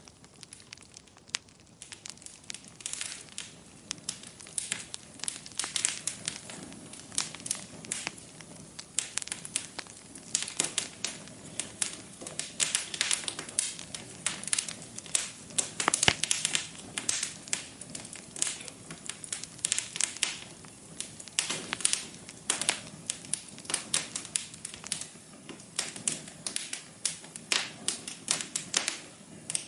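Wood fire burning in a fireplace, crackling and popping irregularly over a faint low hiss, with the crackles densest around the middle.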